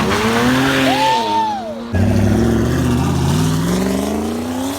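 Car engine revving, then accelerating hard from about two seconds in, its pitch climbing steadily. A brief high squeal rises and falls about a second in.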